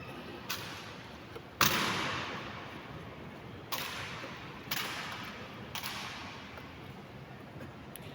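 Sharp drill strikes of an honor guard, boots stamping and rifles striking a stone floor, echoing through a large hall. There are five strikes, the loudest about a second and a half in, each ringing out before the next.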